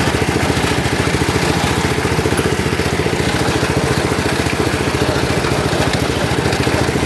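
Lawn tractor engine running steadily at an even speed, its firing pulses regular throughout.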